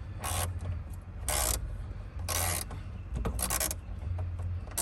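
Ratchet socket wrench clicking in short strokes about once a second while backing out dashboard screws.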